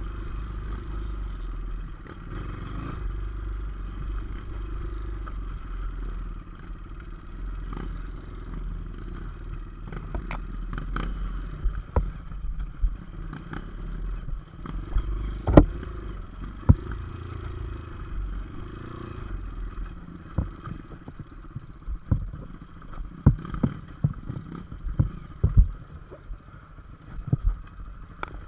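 Motorcycle engine running steadily, with frequent sharp knocks and clatters from about a third of the way in.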